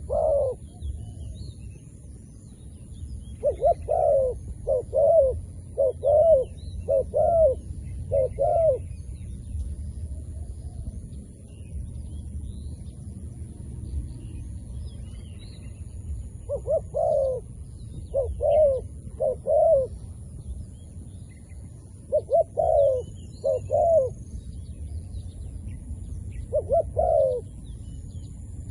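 Zebra dove cooing: several runs of short, rising-and-falling coos, roughly one a second, separated by pauses. Under them runs a steady low rumble, and other small birds chirp faintly.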